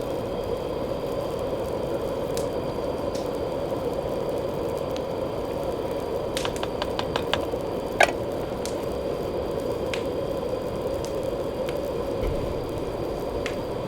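Heavy rain falling steadily, with scattered drips and clicks: a quick run of clicks about six and a half seconds in and a sharp tap about eight seconds in.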